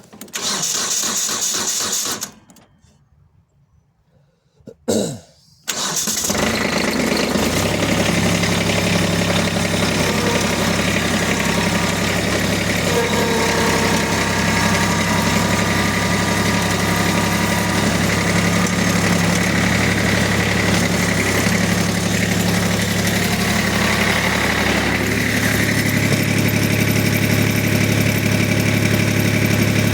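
An engine being started: about two seconds of cranking, a pause, a brief burst, then it catches about six seconds in and settles into a steady idle.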